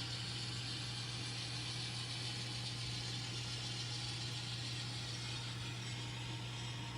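Sound-equipped N scale diesel locomotive's onboard speaker playing a steady diesel engine running sound, a low even drone with a light rattle on top.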